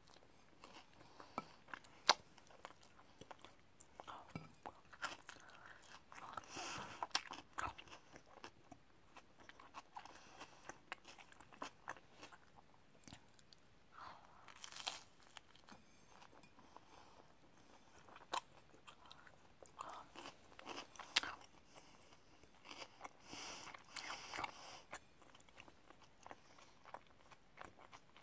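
Close-up eating sounds of a person biting and chewing lettuce-topped bread: crisp crunches and sharp mouth clicks, with louder clusters of crunching every few seconds.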